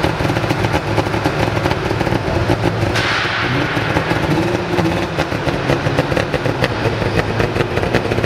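Saab 96 rally car's three-cylinder two-stroke engine running with a rapid, crackling firing beat. A hiss joins in about three seconds in.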